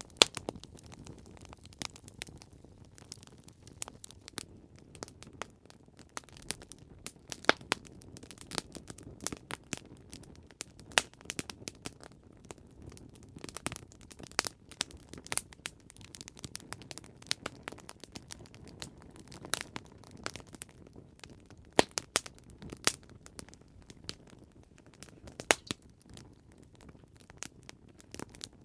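Wood fire crackling, with irregular sharp pops and snaps over a low steady hiss of burning.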